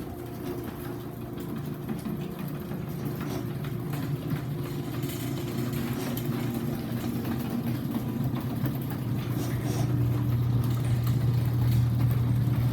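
Stanley garage door opener's electric motor running as it drives the door, a steady hum that grows gradually louder.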